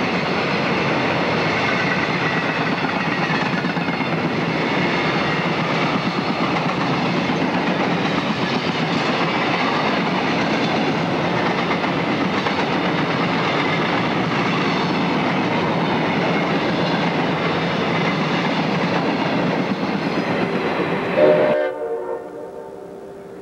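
Freight train boxcars and covered hopper cars rolling past close by, a loud, steady rush of wheels on rail. Near the end it cuts off suddenly and a distant locomotive's horn sounds, much quieter.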